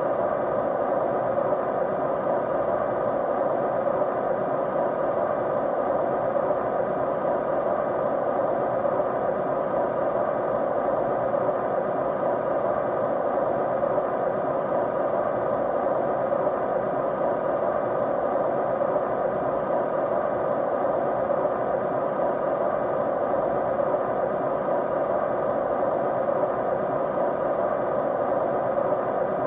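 Steady white noise: an even, unchanging rushing hiss, fullest in the middle of the range, with a few faint steady tones in it.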